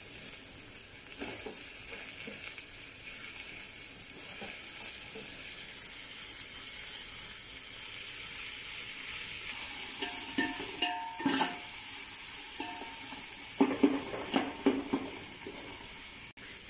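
Chopped onions and tomatoes sizzling in hot ghee and oil in a metal pot, a steady frying hiss. In the second half a spoon clanks and scrapes against the pot in short bursts as the tomatoes are stirred in.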